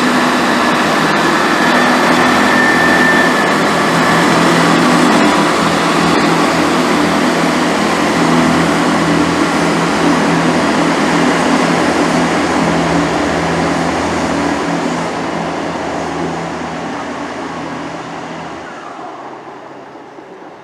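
Diesel multiple unit train running close by a station platform: steady engine note under rumble and wheel noise, with a high squeal in the first few seconds. The whole sound fades away over the last few seconds as the train draws off.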